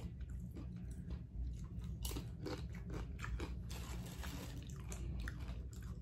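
Close-up chewing and crunching of tortilla chips with salsa: a string of irregular sharp crunches over a low steady hum.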